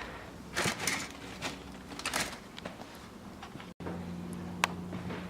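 Scattered rustling and light knocks, like things being handled and moved. Partway through, the sound cuts abruptly to a steady low hum, with one sharp click soon after.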